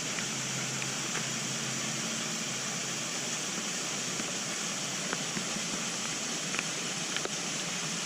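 Steady hiss of rain falling, with a few faint ticks about five seconds in and again near the end.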